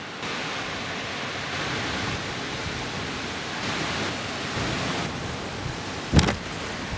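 Steady rushing noise with no pitch to it, stepping up slightly just after the start, and one sharp knock about six seconds in.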